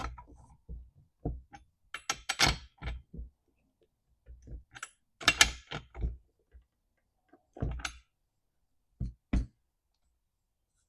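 Metal tools and chainsaw parts being handled on a workbench: scattered knocks and clatters, in a few short clusters with quiet gaps between.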